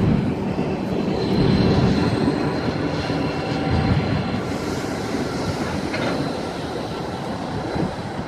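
Train running past on the rails, a steady rumble of wheels with a thin high wheel squeal through the first few seconds.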